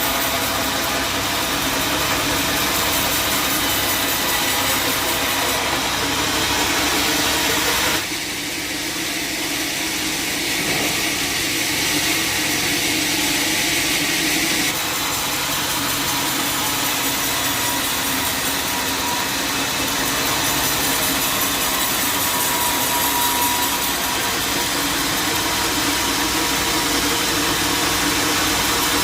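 Band sawmill running steadily, with its motor and blade making a continuous mechanical noise. The sound shifts abruptly about 8 seconds in and again about 15 seconds in.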